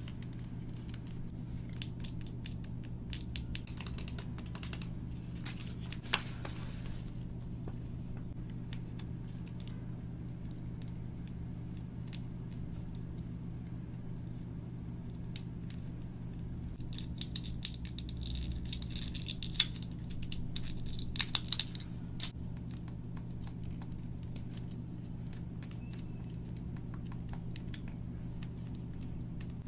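Hands handling and opening toy packaging: scattered clicks, crinkles and rustles in two spells, one near the start and one about twenty seconds in, over a steady low hum.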